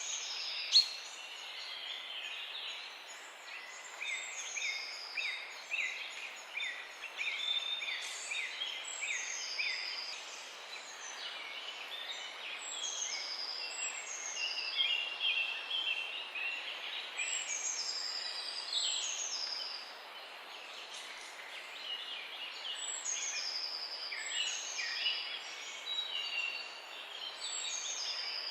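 Several songbirds singing at once, many short overlapping phrases and down-slurred notes, over a faint steady hiss. A single sharp click sounds about a second in.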